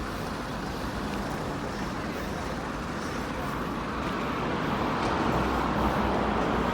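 Road traffic noise, a steady rush of passing vehicles that slowly swells towards the end and then eases.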